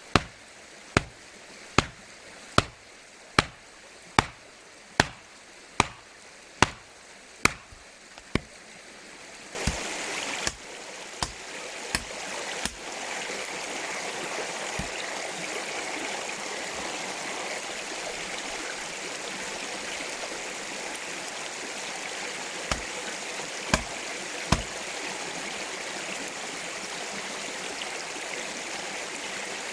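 A run of about eleven sharp, evenly spaced knocks, a little over one a second, stops about eight seconds in. Then a mountain stream takes over, flowing steadily, with a few scattered knocks.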